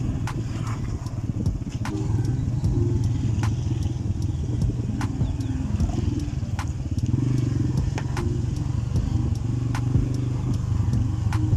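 A single-cylinder Italika TC-250 motorcycle engine running steadily under way, with a rough low drone and sharp ticks every second or so.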